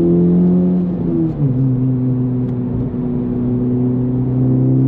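Honda Civic Type R (FL5) turbocharged 2.0-litre four-cylinder with an AWE Touring cat-back exhaust, pulling under load. About a second in, the engine note drops in pitch for an upshift, then holds steady and begins to climb again near the end.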